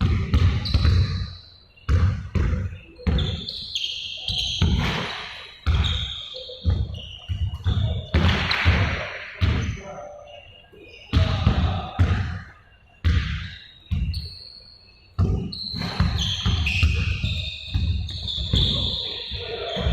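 Basketballs being dribbled on a hard court in a large echoing hall: many irregular bounces overlapping, with short high squeaks in between.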